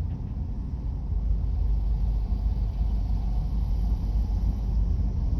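Steady low rumble of a moving car heard from inside the cabin, mostly road and tyre noise, growing slightly louder about a second in.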